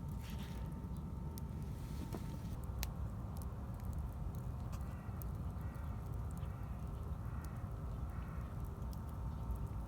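Campfire crackling: scattered sharp pops and clicks over a steady low rumble.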